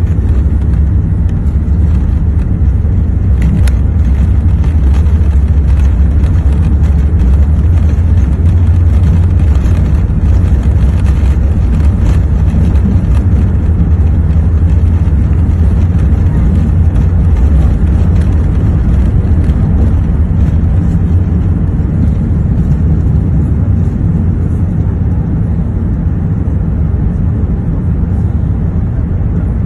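Steady low rumble of engine and airflow noise inside the cabin of an Airbus A380, with a few faint clicks.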